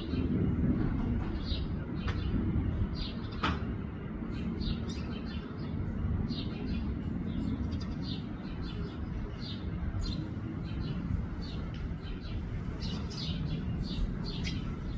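Small birds chirping, many short high chirps in quick succession, over a steady low rumble.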